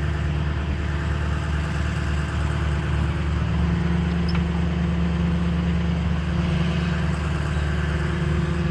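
Truck engine idling steadily, its hum growing a little stronger about three and a half seconds in.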